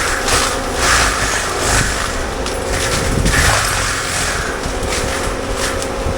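CAT 299D3 XE compact track loader running a Fecon Blackhawk forestry mulcher head, a steady engine rumble and drum tone under irregular bursts of shredding as the knives chew through brush.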